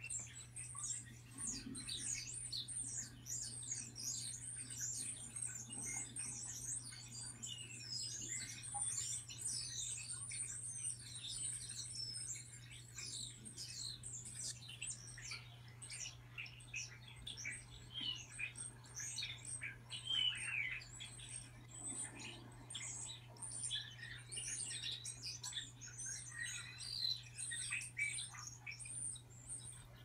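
Birdsong from a TV's speakers: a dense run of high-pitched bird chirps, many falling in pitch, over a steady low hum.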